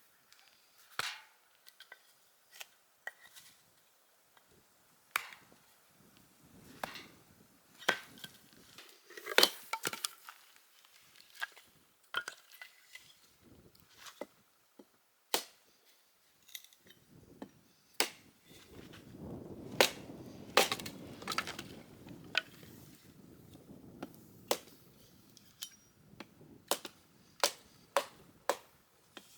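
Wood cracking and knocking in sharp, irregular strikes, sometimes several a second, with rustling in the middle stretch.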